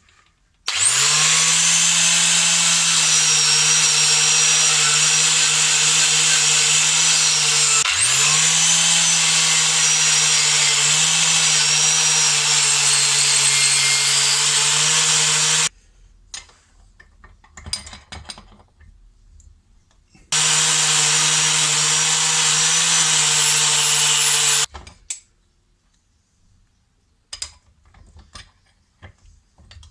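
Small power tool motor spinning up and running at a steady speed for about fifteen seconds, dipping and spinning back up about halfway through. It stops, leaving a few light clicks and handling sounds, then runs again for about four seconds and stops.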